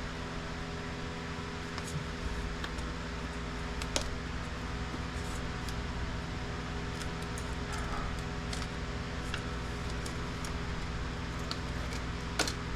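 Steady hum, as from a fan, with scattered light clicks and taps of plastic printer parts being handled during disassembly, and a louder knock near the end.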